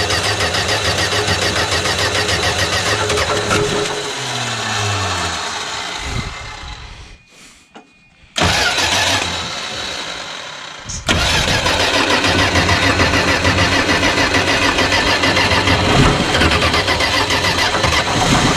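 Slant-six engine of a 1978 Plymouth Volare being cranked over on the starter after sitting for years, turning over without catching. The cranking slows with a falling pitch, stops briefly about seven seconds in, then starts again and runs steadily to the end.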